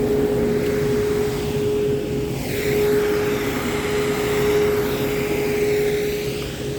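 Vehicles passing on a wet road: tyre hiss that swells and fades twice, over a steady hum.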